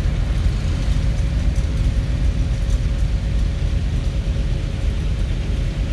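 Antique tractor engine running, a steady low rumble with a faint steady hum through it.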